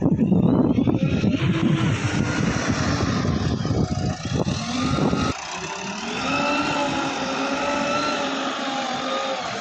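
Heavy diesel engine running hard, loud, with a low rumble and clatter. About five seconds in it drops abruptly to a quieter, steadier engine note whose pitch wavers up and down.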